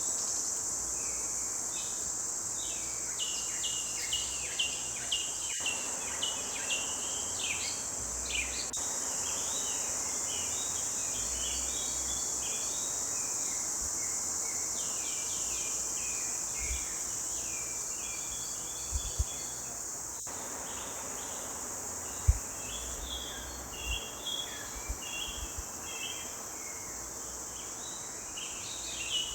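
Songbirds chirping in a forest, with several birds repeating short, quick phrases over a steady high-pitched insect drone. Two brief low knocks come about two-thirds of the way through.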